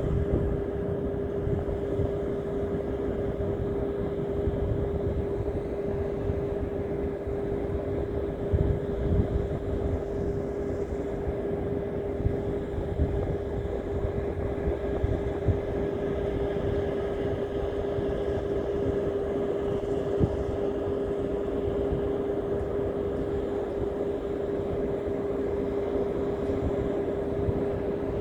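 A steady mechanical hum holding one constant pitch over a dense, low rumbling noise, unchanged throughout.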